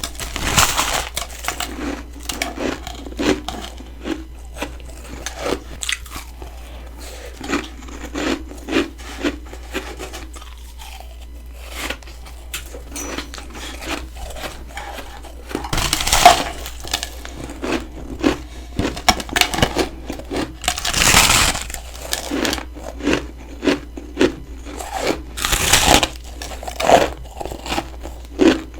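Close-up crunching as a person bites and chews humidifier freezer frost: a steady run of short crisp crunches, with a few louder, longer bites in the second half.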